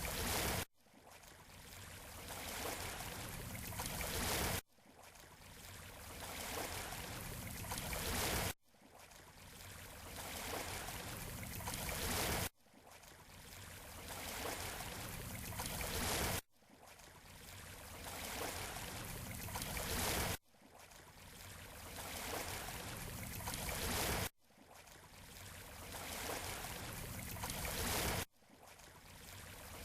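Shoreline water noise: a hiss that builds over about four seconds and then cuts off abruptly, repeating at even intervals about seven times.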